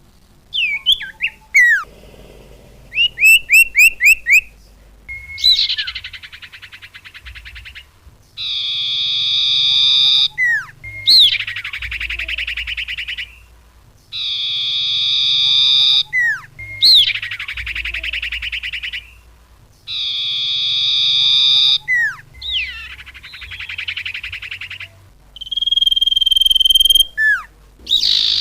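Bird lure call recording: sharp falling chirps and quick runs of whistled notes alternate with repeated harsh buzzing calls about two seconds long, a looping lure sound for attracting small birds such as sirtu, cupon and diku.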